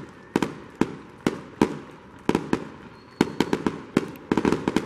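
Aerial fireworks shells bursting in a series of sharp bangs, roughly two a second, with a rapid cluster of cracks near the end.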